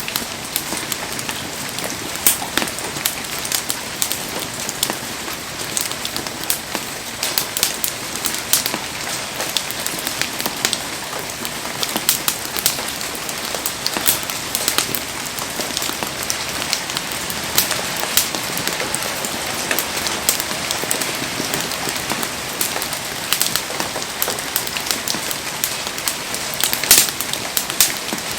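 Heavy rain falling steadily, a dense hiss with frequent sharp ticks and pops throughout, around a wood campfire burning in the downpour.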